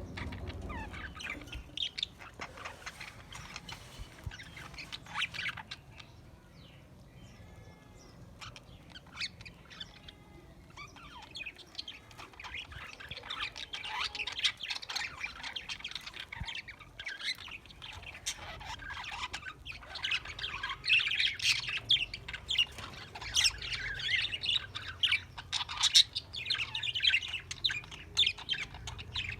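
A group of budgerigars chirping and chattering, with many short calls overlapping. The calling thins out for a few seconds about a quarter of the way in, then grows busier and louder toward the end.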